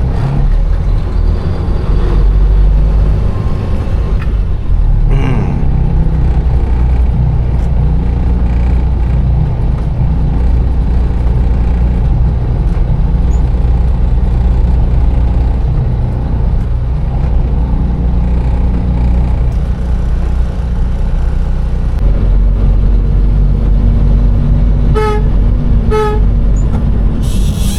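Steady low rumble of a container truck's engine heard from inside the cab, with two short horn toots about a second apart near the end.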